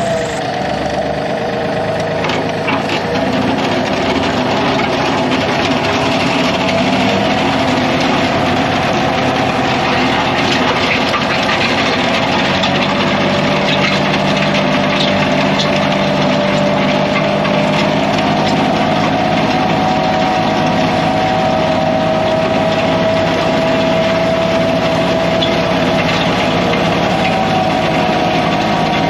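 Kioti CK3510 compact tractor's diesel engine running steadily under load, its pitch drifting slightly, while the land plane drags and scrapes loose driveway gravel.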